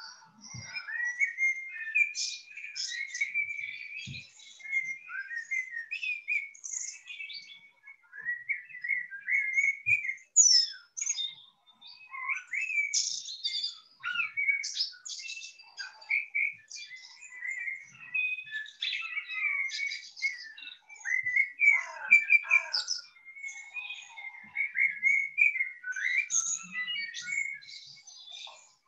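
Songbirds singing: an unbroken stream of chirps and warbling phrases, several birds overlapping.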